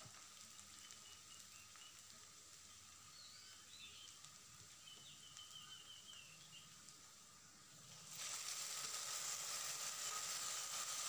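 Diced potatoes and onions frying gently in oil in a kadai, faint at first. About eight seconds in, a wet tomato, chilli and garlic paste is poured into the hot oil and a loud, steady hissing sizzle starts suddenly and keeps going.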